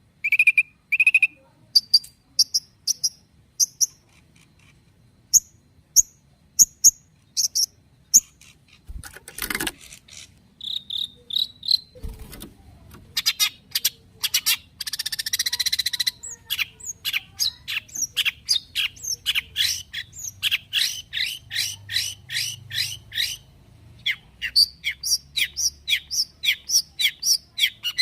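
Long-tailed shrike (cendet) singing: sparse sharp high notes at first, then short rising whistles, a fast trill with a harsh buzzy stretch in the middle, and a long run of rapid repeated chirps, two or three a second, through the second half.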